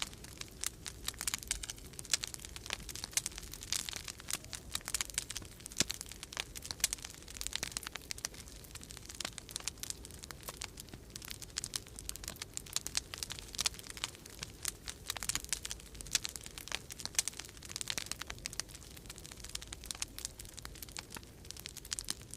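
Wood fire crackling in a fireplace: dense, irregular pops and snaps throughout, over a low, steady rumble of storm wind.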